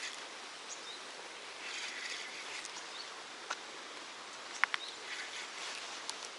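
Steady outdoor hiss with patches of rustling and a few sharp clicks, two of them close together about two-thirds of the way in.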